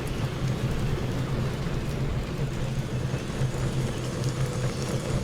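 Bicycle rolling along a dirt forest road: a steady crackling noise of tyres on the surface, with a low wind rumble on the microphone.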